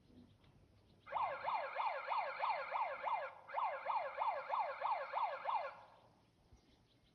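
Electronic siren sound in a fast yelp, its pitch sweeping up and down about four times a second, in two bursts about two seconds long with a short break between them.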